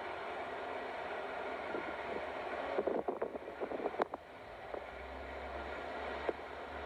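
Freight train hauled by a TEM2 diesel shunting locomotive rolling past with a steady rumble. About three seconds in comes a quick cluster of sharp clicks and knocks from the wheels and cars, then one more knock near the end.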